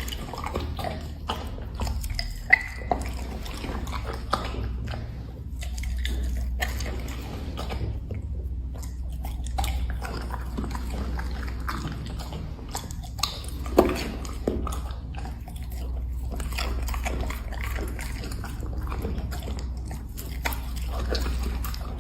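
A black Labrador chewing and biting on seafood treats: wet, irregular chewing with sharp clicks of teeth on food, the loudest a little over two seconds in and again about fourteen seconds in, over a steady low hum.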